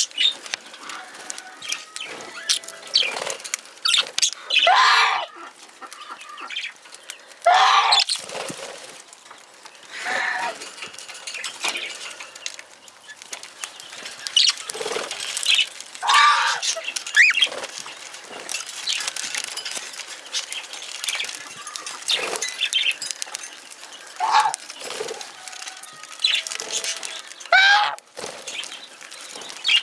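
Budgies chirping and chattering: a run of short warbled calls with quick rising and falling sweeps, a few louder squawks among them, over steady light rustling and clicking.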